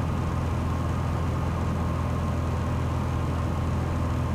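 Cessna 182's single piston engine and propeller droning steadily in cruise, heard inside the cabin.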